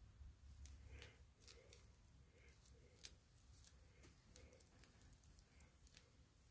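Near silence: low room hum with faint, irregular small clicks and ticks from hands working a pitch-glued binding.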